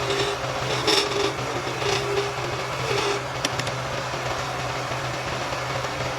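Wood lathe running with a steady motor hum, and a turning tool scraping into the spinning wood in short passes about three times during the first few seconds.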